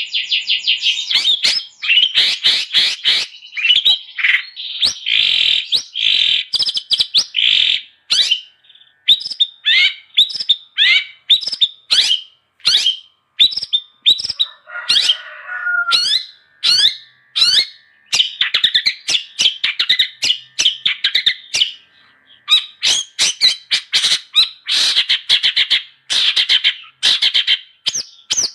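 Long-tailed shrike (cendet) singing a fast, continuous run of sharp chirps and quick down-sweeping notes, with a short harsher, lower call about halfway through.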